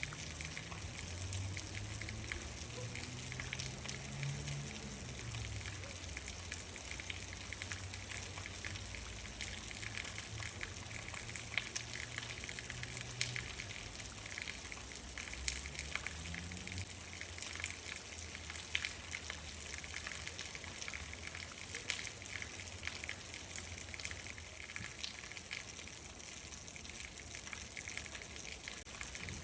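Steady rain: a constant hiss with many individual drops ticking sharply close by. A low rumble sits underneath and fades out about halfway through.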